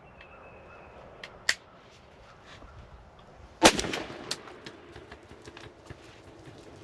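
A single gunshot about two-thirds of the way in, with a short echo trailing off after it. A sharp click comes a couple of seconds before it.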